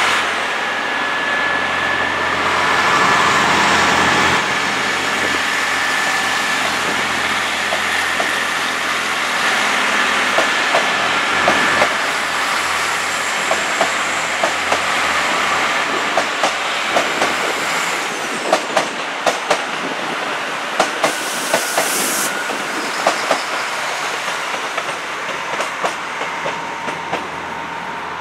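Irish Rail Class 29000 diesel multiple unit running past at low speed, with a steady high wheel squeal for the first dozen seconds, then its wheels clicking over rail joints and points. A brief hiss about 21 seconds in.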